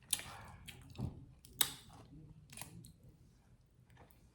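Close-miked eating noises at a seafood boil: four or five short, sharp clicks and cracks spread over a few seconds, with quiet between them.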